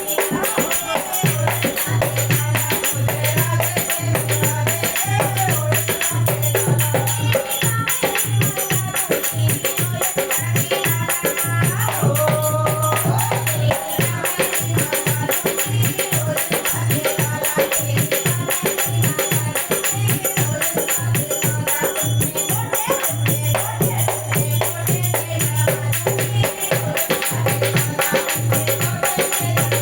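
Indian devotional bhajan music: a dholak drum playing a steady, lively beat under jingling percussion and a wavering melody line.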